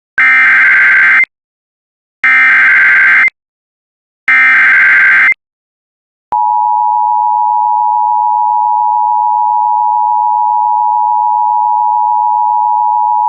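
Emergency Alert System SAME header: three buzzy one-second bursts of digital data tones, about a second apart. About six seconds in, the steady two-tone attention signal starts and holds, announcing a flood warning alert.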